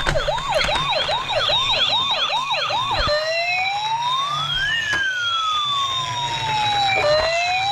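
Toy police car's electronic siren: a fast yelp of about three pitch sweeps a second, which switches about three seconds in to a slow wail that rises and falls over a couple of seconds each way.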